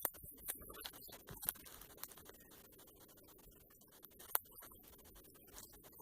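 Quiet, with faint scattered clicks and ticks over a low hiss; the sharpest click comes about four seconds in.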